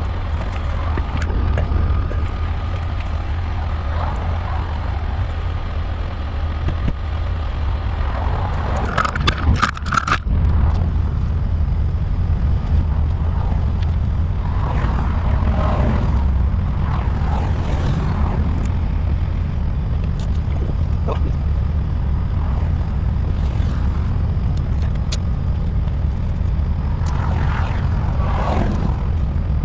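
Steady low rumble of a vehicle driving on the road, with a short burst of sharp clatter about nine seconds in.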